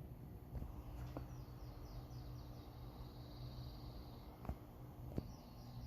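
Faint outdoor ambience: runs of high chirps repeating several times a second, over a low steady hum, with a few soft clicks.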